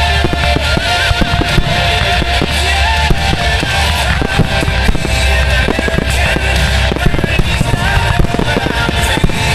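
Fireworks going off in quick succession, many bangs and crackles, over loud rock music with singing and guitar.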